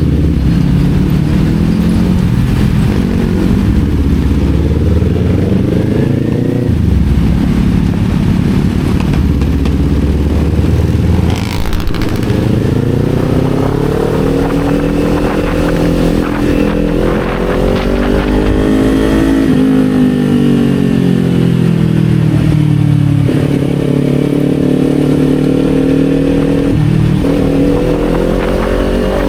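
Kawasaki Z400's parallel-twin engine running under way, its revs climbing and falling with several sudden changes in pitch as the gears are shifted.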